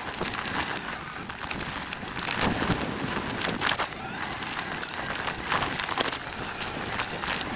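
Cyrusher XF900 electric fat-tire mountain bike being ridden over a rough dirt trail: a steady rush of tyre and wind noise, broken by frequent sharp clicks and knocks as the bike and its rack-mounted load bounce.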